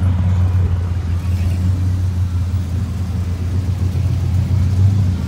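Car engine rumbling steadily at low revs.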